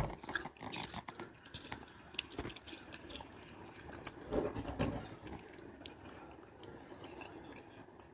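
Shiba Inu chewing watermelon: irregular wet crunching and smacking bites, with louder bites about two and four and a half seconds in.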